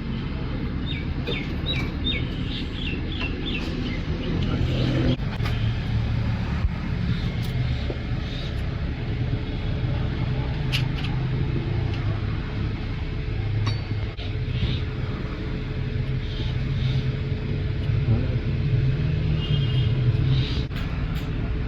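Steady low mechanical rumble, with a bird chirping a quick run of notes in the first few seconds. A steady hum joins about five seconds in, and there are a few scattered clicks.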